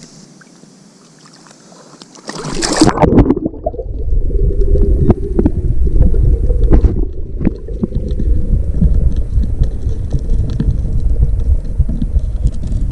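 A splash about two seconds in, then loud, muffled rumbling and gurgling of water around a submerged microphone, with many small clicks and a steady low hum underneath.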